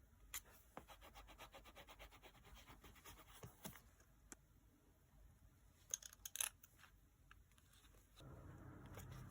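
Quiet desk sounds of paper crafting: a run of fine, rapid scratching on paper for a few seconds, a few sharp clicks about six seconds in, and a short rub near the end.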